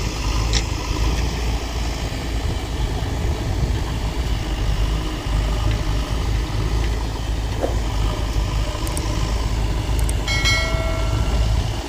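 Powertrac Euro 50 tractor's diesel engine running steadily as it pulls a fully loaded trolley, a low rumble throughout. A brief steady pitched tone sounds about ten seconds in.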